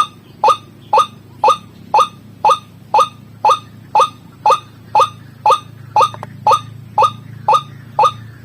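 White-breasted waterhen (ruak-ruak) calling: a monotonous series of short, sharp 'kruak' notes, about two a second and evenly spaced, over a faint low hum.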